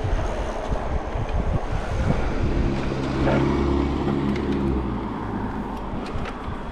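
Street traffic noise with a low rumble, and a motor vehicle's engine humming close by for a few seconds in the middle before fading.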